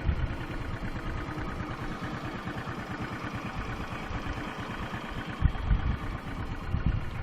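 A vehicle engine running steadily, with low thumps about five and a half and seven seconds in.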